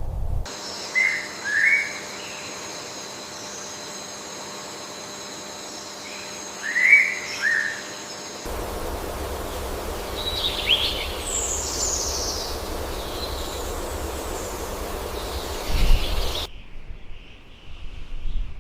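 Wild birds calling: short paired chirps, then a run of higher, quicker chirps and trills, over outdoor ambience that changes abruptly twice. A steady high whine runs under the first part.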